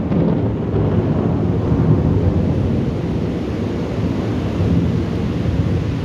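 Thunder rolling in a long, low rumble that rises and falls in loudness, over the faint hiss of rain.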